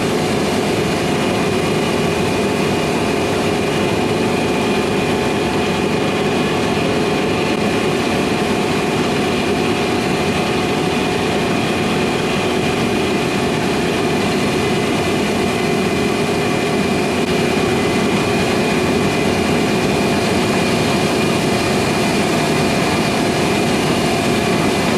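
Large diesel harvest machinery running steadily, a constant engine drone with a held whine over it.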